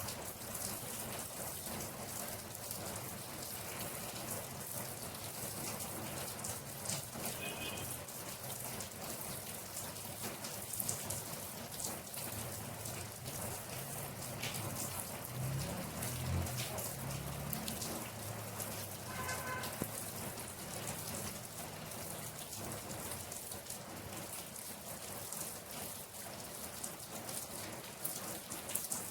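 Steady rain falling, with individual drops ticking on a surface, and a low rumble about halfway through.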